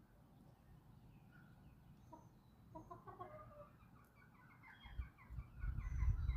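Backyard chickens clucking: a few soft clucks about three seconds in, then a quicker run of clucks from about five seconds on, over a low rumble.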